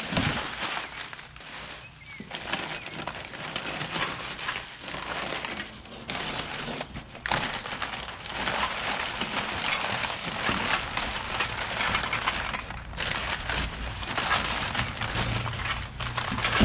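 Packaging crinkling and rustling as car parts are unwrapped and handled, a dense crackle that comes and goes in loudness.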